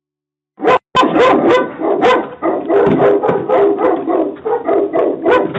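A dog barking rapidly and loudly, starting about half a second in and running on in quick repeated barks.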